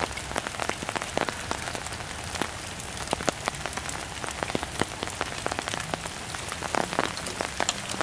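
Rain falling on leaves and undergrowth: a steady hiss with many separate drops ticking irregularly.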